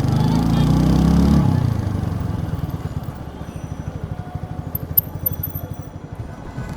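TVS Apache RTR 4V single-cylinder engine and exhaust: a louder run with the engine note shifting for the first second and a half, then dropping back to a steady, evenly beating idle. A sharp click near the five-second mark.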